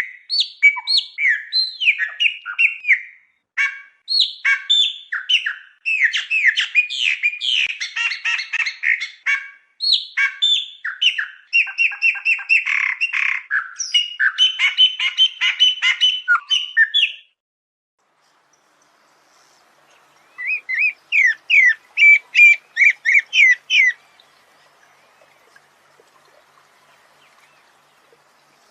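Songbird singing long runs of rapid, varied whistled and chattering notes, then after a silence of about three seconds a short burst of about a dozen quick slurred notes over faint hiss.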